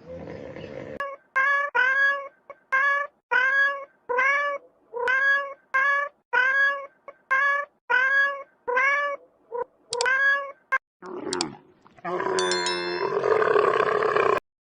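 An animal calling over and over, about two short calls a second, each call rising and then falling in pitch. Near the end comes a louder, more continuous sound lasting about two seconds that cuts off suddenly.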